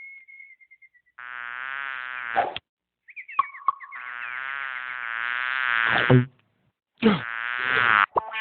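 Frogs giving long buzzing calls: three drawn-out, nasal drones, the middle one longest and growing louder, each cut off suddenly by silence, with a few short chirps between the first two.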